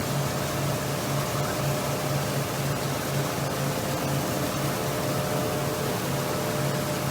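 Machinery running steadily: an even hiss with a low hum that pulses a few times a second.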